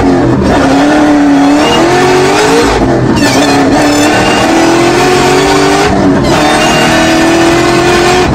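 High-powered car engine at full throttle, accelerating through the gears: the pitch climbs steadily in each gear and drops back at each shift, about three times.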